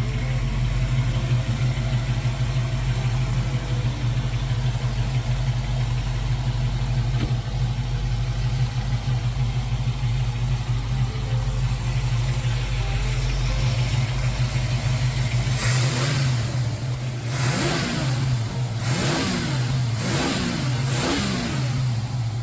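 Ford 302 V8 with headers and a dual Flowmaster exhaust idling steadily, then blipped several times in quick succession in the last few seconds, each rev rising and falling back to idle.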